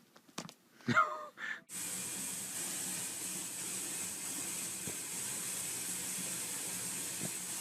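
A few soft clicks and a brief pitched sound, then a steady rushing hiss like running water, which cuts off abruptly near the end.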